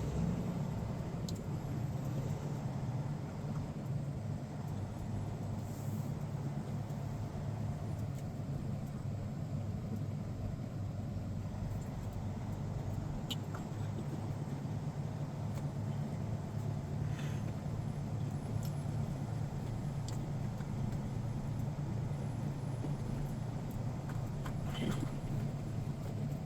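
Semi-truck's diesel engine running steadily in slow traffic, a low even hum heard from inside the cab, with a few faint clicks.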